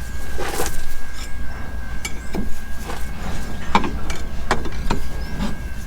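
Irregular metal clinks and knocks of hand tools working a tight hydraulic fitting, about eight in all, over a steady low hum.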